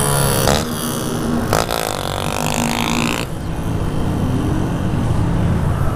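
Motorcycle engine revving up under acceleration, its pitch rising for over a second before cutting off abruptly about three seconds in as the revs drop, likely at a gear change. Steady engine and road/wind noise of riding follow.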